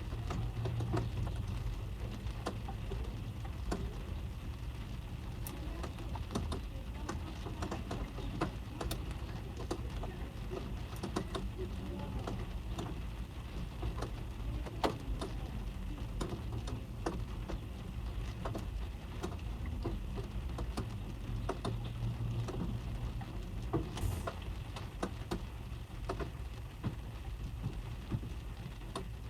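Rain heard inside a car's cabin: raindrops tapping irregularly on the car body, over a steady low rumble.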